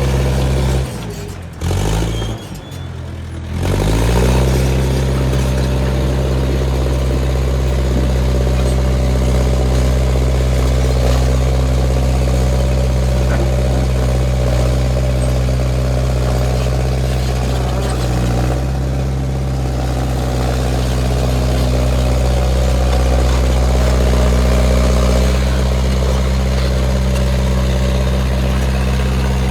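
International 125 crawler loader's engine running steadily while working, its pitch dropping and the sound cutting out briefly about one to three seconds in before it comes back, with a small shift in pitch about eighteen seconds in.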